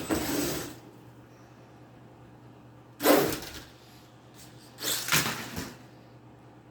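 Venom Mini Giant RC monster truck driving in three short bursts, its tires and gears rushing and knocking over cardboard while the brushless motor stays nearly silent; the loudest burst comes about three seconds in.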